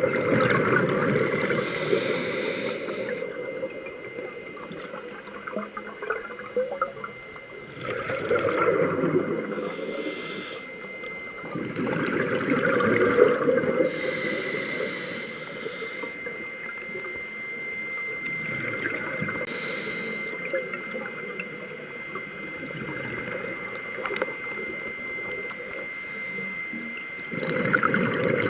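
Scuba diver breathing through a regulator underwater: gurgling surges of exhaled bubbles every few seconds, over a steady high tone.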